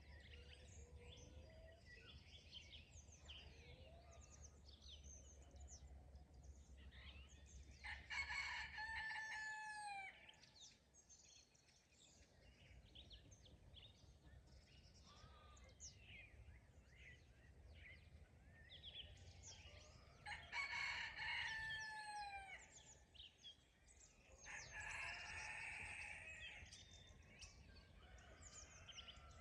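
A rooster crowing three times, about 8, 20 and 25 seconds in, over the steady chirping of small songbirds.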